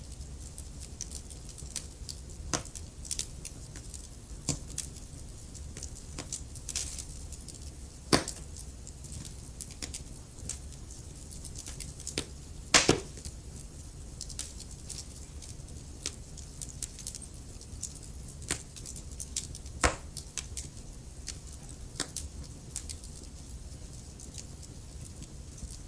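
Wood fire burning in a fireplace: logs crackling with a steady scatter of small snaps and a few louder pops, the biggest about 8 and 13 seconds in, over a low steady rumble of the flames.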